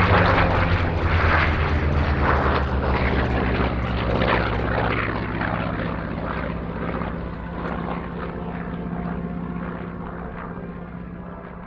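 F4U Corsair's Pratt & Whitney R-2800 eighteen-cylinder radial engine running at power on a low pass, loud at first and then fading steadily as the fighter flies away.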